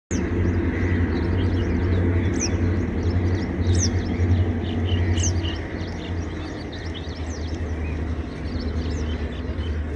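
Several birds chirping and calling, with a repeated sharp, high, falling note about every one and a half seconds in the first half and many small chirps between, over a steady low rumble.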